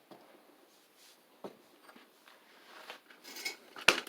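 Light clicks and a short scrape of small metal engine parts being worked by hand, ending in one sharp metallic click near the end.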